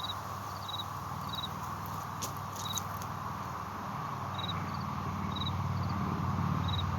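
Insect chirping: short three-pulse chirps repeated about once a second, over a low hum that grows louder about four seconds in. A few faint clicks are heard in the first half.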